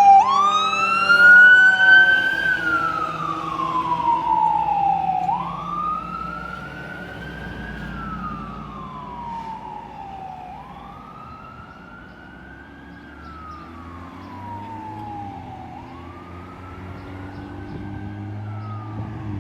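Fire truck siren on a slow wail, rising and falling about every five seconds, growing fainter as the truck moves away, over a low engine rumble.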